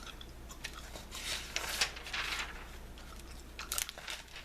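Close-miked chewing of watermelon Bubblicious bubblegum: irregular wet clicks and smacks. Between about one and two and a half seconds in there is a longer rustle of magazine pages being handled.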